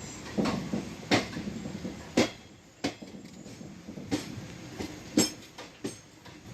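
Moving Indian Railways sleeper coach running over the track, with a steady rumble and irregular sharp clacks and knocks of the wheels and coach over the rails.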